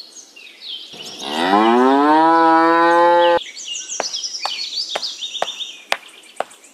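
A cow mooing once: one long call that rises in pitch, then holds and cuts off suddenly, laid in as a sound effect. High bird chirps run above it, and a few sharp clicks follow.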